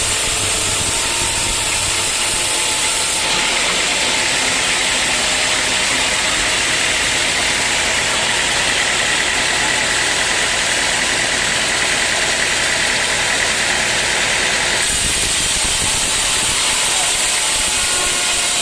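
Sawmill machinery running steadily: an engine with a loud hiss over it, which grows stronger and brighter from about three seconds in until about fifteen seconds, then eases back.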